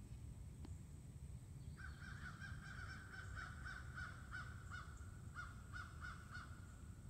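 A bird calling a fast series of short repeated notes, three or four a second, starting about two seconds in and pausing briefly near the five-second mark.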